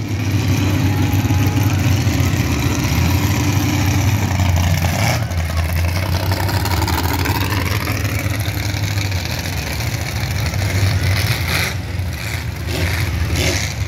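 V8 derby car engines rumbling as the cars drive slowly past one after another, with the engine note rising and falling around the middle.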